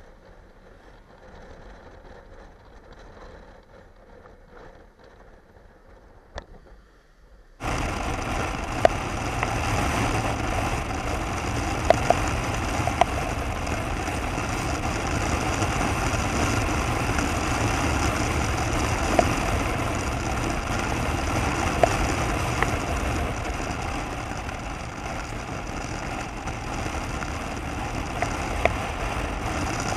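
Faint sound for the first several seconds, then abruptly a motorcycle running on the road: a steady engine hum with a few sharp ticks.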